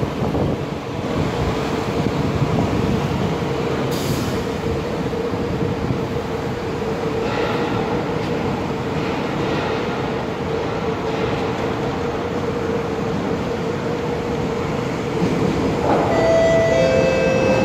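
Siemens C651 electric train running into the station platform: a steady rumble of wheels and running gear under a steady whine. Near the end a few brief high tones sound as it slows.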